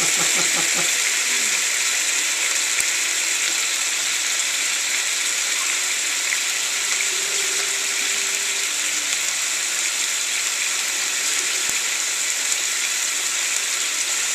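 Stir-fry sauce and sliced carrots sizzling in a hot frying pan, a steady hiss.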